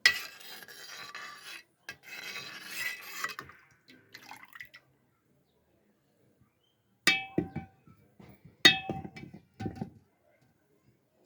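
Kitchen dishes and utensils: a hissing rush of sound twice in the first few seconds, then three sharp ringing clinks near the end.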